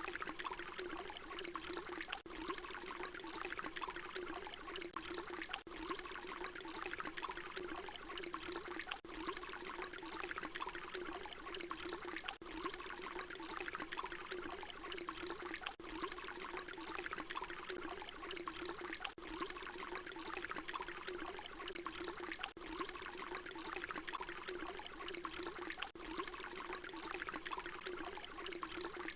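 Water pouring in a steady stream, a short recording looped, with a brief dip in the sound about every three and a half seconds where the loop repeats.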